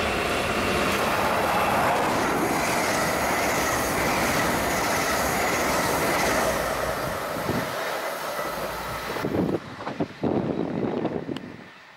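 NS double-deck passenger train passing through a station at speed: a loud, steady rush of wheels on rail with a faint high squealing tone. About nine seconds in the sound drops sharply, leaving a few irregular thumps and rumbles as the train draws away.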